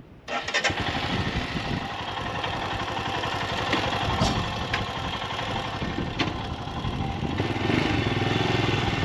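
Motorcycle engine starting: it catches suddenly just after the start, then runs steadily with a fast low beat, getting a little louder near the end.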